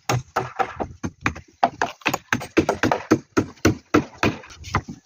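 Rapid, irregular knocks and taps of hard objects striking, about four or five a second.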